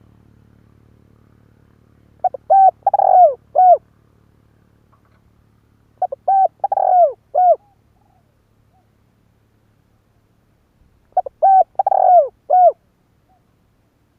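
Spotted dove cooing: three phrases a few seconds apart, each a short run of falling hoots with one longer note in the middle.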